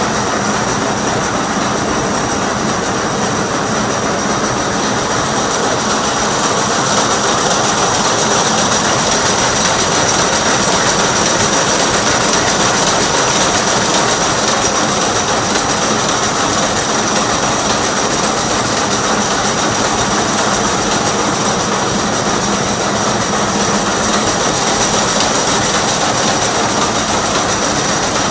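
24-carrier horizontal wire braiding machine running steadily: a loud, continuous mechanical clatter with a steady high-pitched tone over it.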